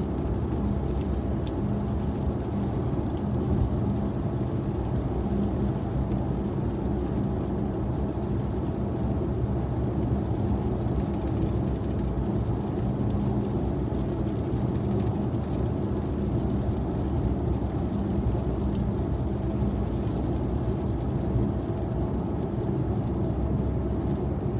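Steady engine and tyre noise of a car driving along a highway, a continuous low rumble with a faint steady hum.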